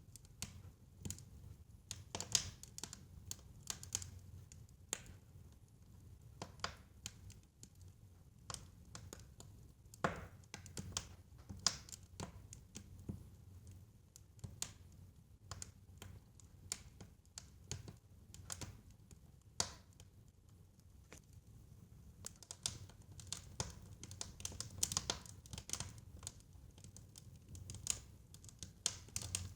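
Fireplace fire crackling, with irregular snaps and pops over a faint low rumble.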